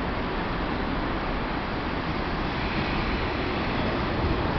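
JR 201 series electric commuter train pulling into a station: steady rumble and rail noise of the cars running in alongside the platform, getting a little louder near the end.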